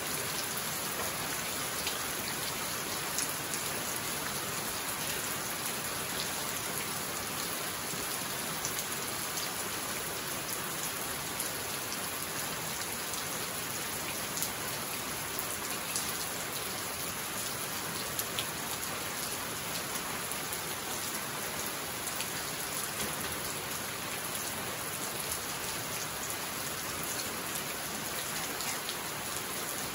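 Steady rain falling on leafy tropical vegetation, including a banana plant, with scattered sharper individual drop hits.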